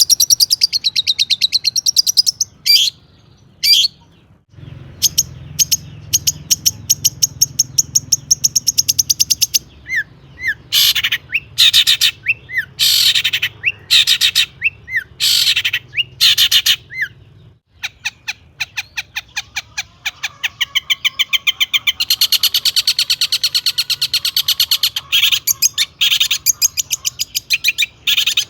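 Long-tailed shrike singing a loud, varied song: long runs of very fast, high chattering trills, broken in the middle by short separate curved notes, in the shrike's mimicking repertoire of other birds' calls.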